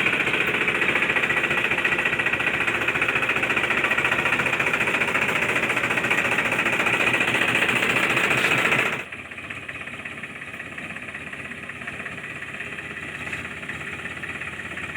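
Engine running with a steady, fast rattle. It drops sharply in level about nine seconds in and carries on quieter.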